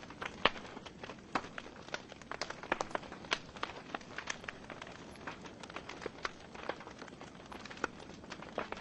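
Wood fire burning in a fireplace: a soft steady hiss under frequent irregular crackles and pops from the burning logs, with the sharpest pop about half a second in.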